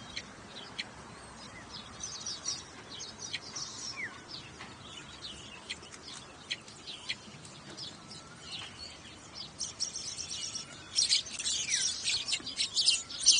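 Several small birds chirping and calling in short high notes with a few brief slurred whistles; the chirping turns louder and busier about eleven seconds in.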